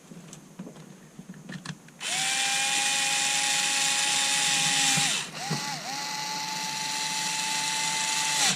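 Cordless power screwdriver driving screws: a few light handling clicks, then a steady motor whine for about three seconds, a brief stop and blip, and another run of nearly three seconds that cuts off suddenly.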